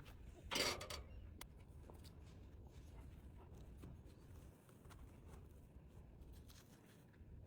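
Quiet handling of items being packed: a short rustle or scrape about half a second in, then faint small clicks and rubbing.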